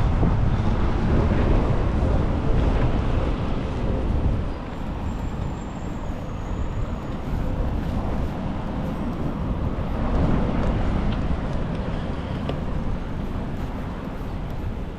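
City road traffic noise, a steady wash of passing vehicles, with a heavy low rumble that eases about four to five seconds in.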